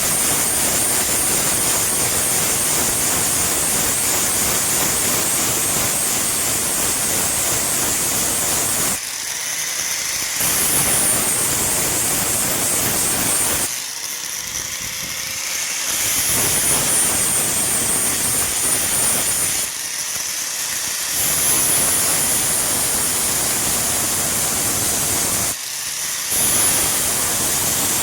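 Electric grinder grinding steel with a steady hiss and a high motor whine. Four times the grinding noise drops away for a second or two while the motor keeps whining, as the work is lifted off the wheel. Each time it goes back on, the whine sags under load and then recovers.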